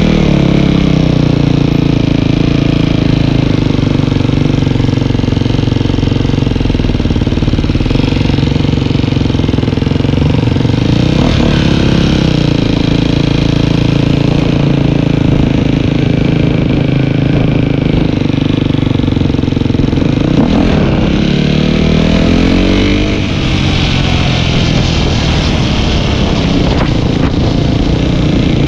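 Dirt bike engine running while riding. Its pitch falls at the start, dips and picks up again about eleven seconds in, and rises as it revs up about twenty-one seconds in.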